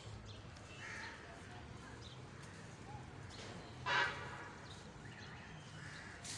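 Birds calling: one short, loud call about four seconds in, with a few fainter calls before and after.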